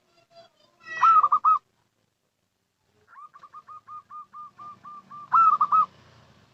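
Zebra dove (perkutut) cooing in quick, evenly spaced staccato notes. A short burst of loud coos comes about a second in. After a pause, a run of soft coos starts at about three seconds and ends in a few louder, fuller notes near the end.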